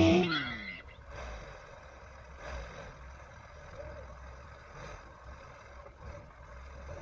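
Background music dies away in the first second, leaving a faint, steady low rumble of a vehicle engine.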